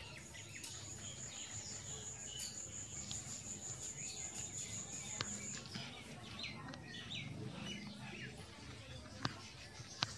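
Small birds chirping in the background, with a high, steady trilling tone through the first half and a few faint clicks.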